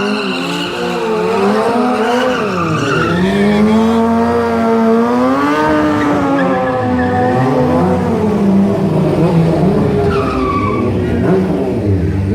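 Stunt motorcycle engine revving, its pitch rising and falling again and again, with tyres skidding on the pavement.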